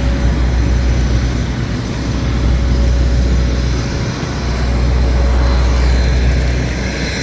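Jet airliner noise at an airport: a steady low rumble with a faint high whine running through it, easing briefly about four seconds in.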